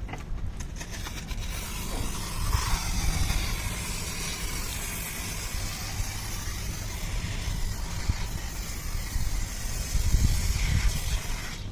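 Pressure-washer jet spraying water onto an air conditioner's coils: a steady hissing spray over the jet pump's low motor hum. The spray starts about a second in and stops near the end.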